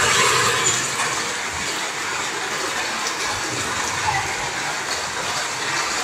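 Heavy rain with running water, a steady rushing hiss.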